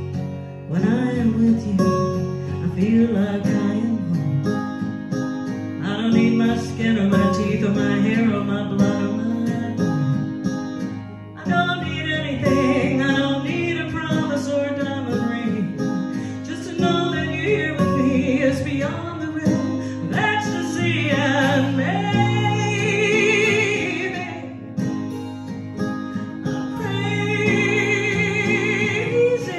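A singer performing an original song over acoustic guitar accompaniment, with long held notes sung with vibrato near the end.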